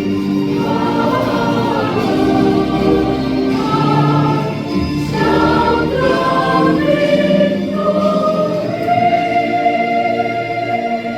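Congregation singing a gospel hymn together, with the last note held long near the end.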